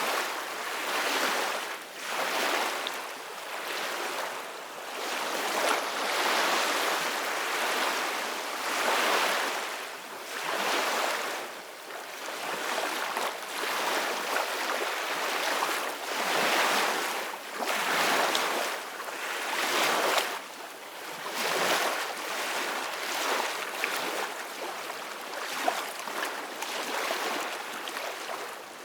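Sea waves breaking and washing, the noise swelling and easing every couple of seconds, with wind.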